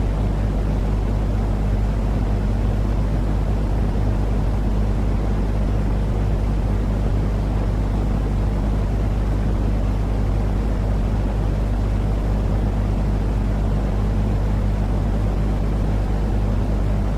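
Steady, unchanging low rumbling noise with a constant low hum under it, a continuous soothing noise track for getting a baby to sleep.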